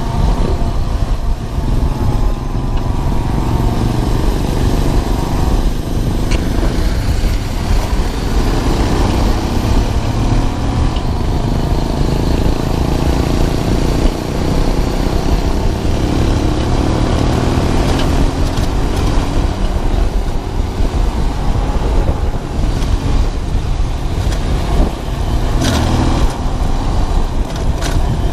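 Romet ADV 150's small single-cylinder four-stroke engine running while riding, its pitch rising and falling with the throttle, under heavy wind rumble on the microphone.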